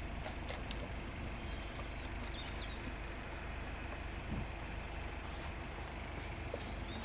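Steady outdoor background noise with a few short, high bird chirps scattered through it and faint clicks.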